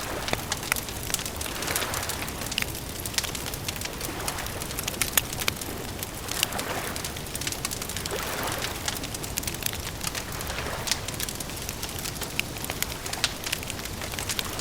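Wood fire crackling steadily, with frequent sharp pops and snaps over a continuous low hiss. Soft swells of noise rise and fall every couple of seconds beneath the crackle.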